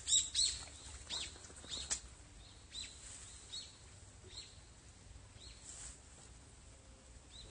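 A bird calling: a series of short, sharp chirps about a second apart, loudest in the first two seconds and growing fainter and more spaced out after.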